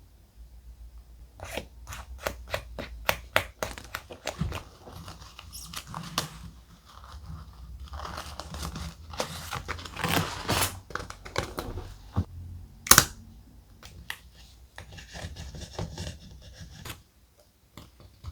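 Thick paper being handled close up: sharp crisp clicks and taps, then a longer stretch of tearing and crinkling, with one loud snap about two-thirds of the way through and softer rustling before it dies away near the end.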